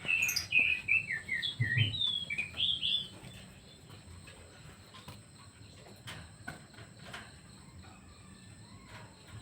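A pet bird singing a rapid run of varied chirps and whistles for about three seconds, then falling quiet with only faint scattered clicks.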